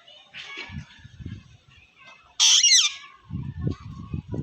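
Pet parrot giving one loud, harsh screech about halfway through that slides down in pitch, with softer low sounds around it.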